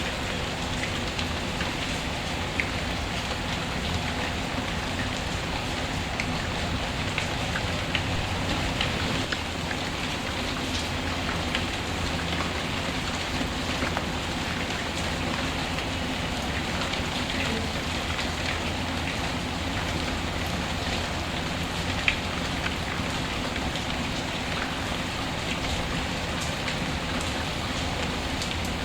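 Steady rain falling, with scattered sharp pops and crackles from a wood fire. The loudest pop comes about 22 seconds in.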